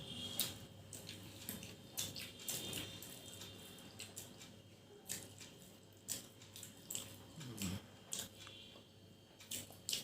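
Faint wet chewing and mouth sounds of people eating luchi with chickpea dal, with irregular short smacks and clicks.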